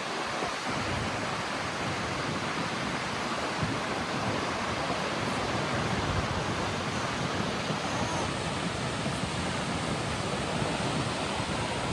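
Steady rushing of Goðafoss waterfall, an even wash of falling water with no breaks.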